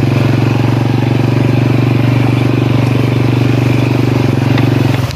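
Motorcycle engine running steadily, laden with two bundles of firewood, in an even low drone that dips briefly near the end.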